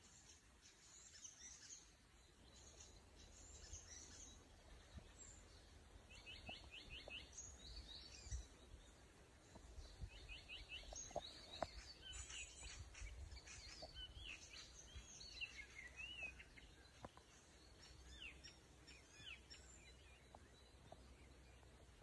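Faint songbirds singing in woodland: several quick runs of short falling notes and high chirps, most of them in the middle of the stretch, over a low rumble.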